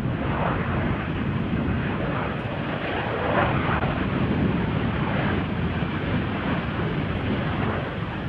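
Jet airliner engines, a steady rushing noise with slow swells, mixed with wind buffeting the microphone.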